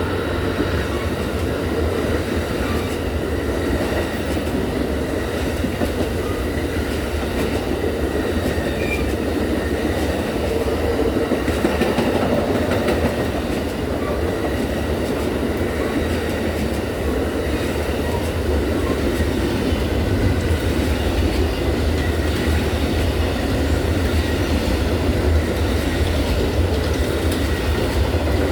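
Amtrak Auto Train's long consist of passenger cars and auto-rack cars rolling past at speed: a steady rumble with the clickety-clack of wheels over rail joints. Faint, steady high-pitched ringing tones run through it.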